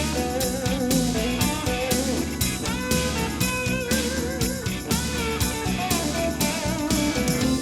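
Band playing blues: an electric guitar lead with bent, wavering notes over bass and drums keeping a steady beat.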